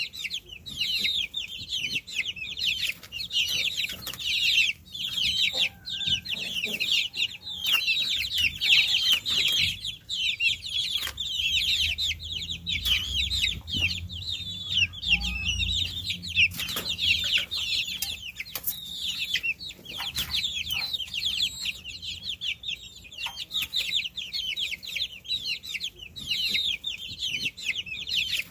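A brood of baby chicks peeping together: a dense, continuous chorus of short, high-pitched chirps, each a quick downward peep. A faint low rumble comes in briefly about halfway through.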